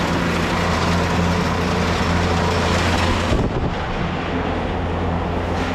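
A vehicle engine idling with a steady low hum under a rushing noise, which lessens about three seconds in.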